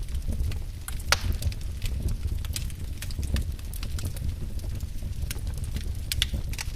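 Wood fire burning in a fireplace: a low steady rumble of the flames with irregular sharp crackles and pops, the loudest about a second in.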